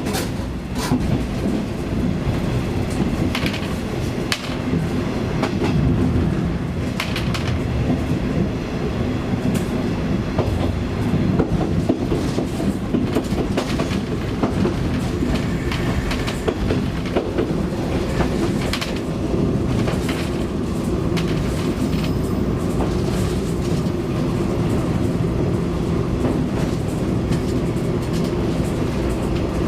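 KiHa 20-series diesel railcar under way, heard from inside: a steady low DMH17 diesel engine drone, with the wheels clicking irregularly over rail joints.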